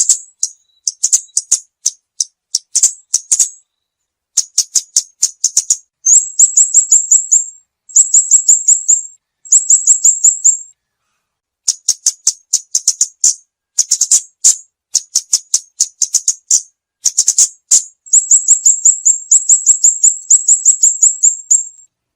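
Lure-call recording of the songbird known in Vietnam as chim ốc mít, singing fast runs of short, sharp, high chirps, each run lasting one to two seconds with brief pauses between.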